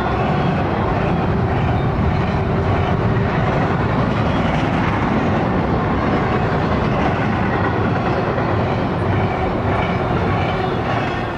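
Double-stack container well cars of a CSX freight train rolling past close by: a steady rumble and clatter of steel wheels on the rails. It begins to fade near the end as the last car goes by.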